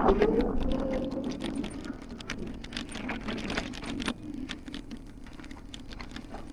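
An e-bike riding over rough ground: irregular crackling and clicking from the tyres and the rattling bike, over a steady low rumble, loudest in the first couple of seconds.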